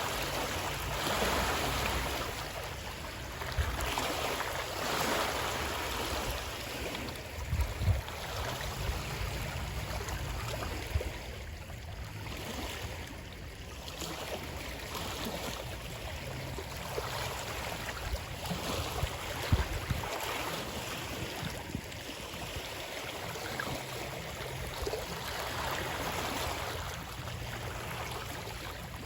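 Moving water rushing steadily, swelling and easing every few seconds, with a few short low thumps.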